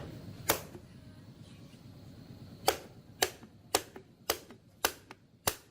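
Sharp clicks: one about half a second in, then after a pause six more, evenly spaced at about two a second.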